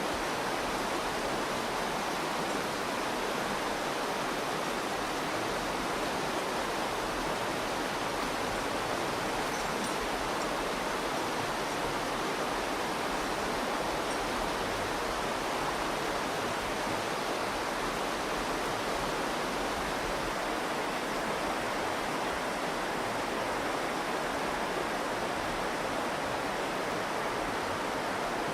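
The Virgin River rushing steadily over its bed, an even, unbroken wash of flowing water.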